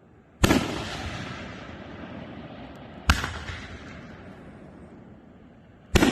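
Raccoon Fireworks Migraine fireworks cake firing its brocade crown shots: three loud bangs, about two and a half to three seconds apart, each trailing off slowly.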